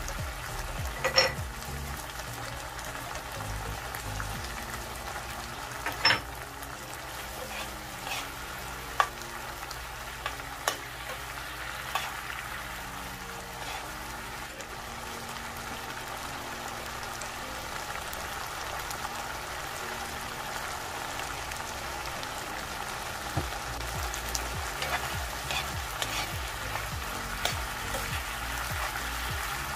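Squid stir-fry in thick chilli sauce simmering and sizzling in a frying pan, stirred with a metal spoon that clinks sharply against the pan a few times, mostly in the first half.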